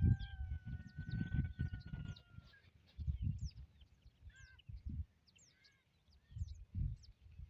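Small birds chirping over and over in short, quick falling notes, with a steady whistle-like tone in the first two seconds. Bursts of low rumbling noise on the microphone are the loudest sound.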